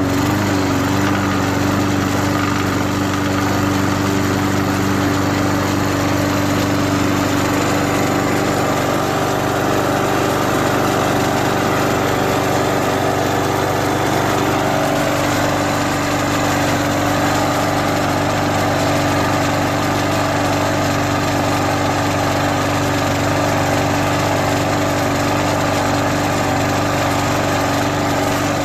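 Push lawnmower's small petrol engine running steadily on WD-40 sprayed into its open intake, air filter removed. It runs without choke, though not at its best.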